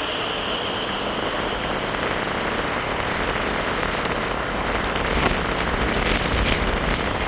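Khersan River's fast water rushing in a steady noise, with a few faint clicks in the last couple of seconds.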